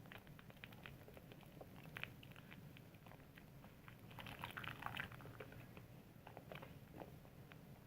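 Hands lathering soap: faint, irregular wet squishing and crackling of the foam, busiest about four to five seconds in.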